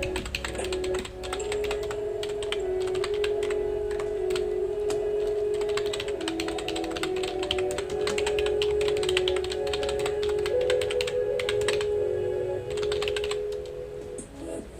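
Fast, continuous typing on a computer keyboard, keys clicking in quick runs with a couple of short breaks near the end. Soft background music with sustained notes plays under it.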